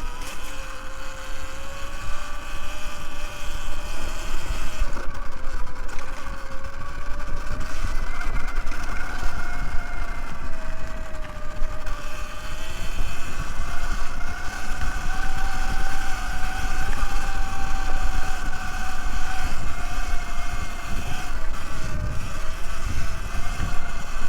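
Segway X160 electric dirt bike's motor whining under way, its pitch drifting up and down with speed, over the rumble of tyres on the trail and wind on the microphone.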